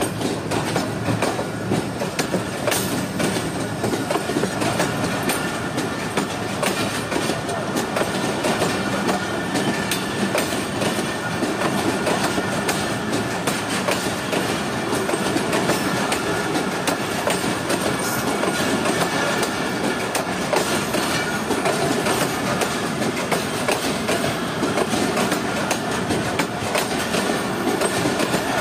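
Bahauddin Zakariya Express passenger coaches rolling past, their wheels clattering continuously over the rail joints.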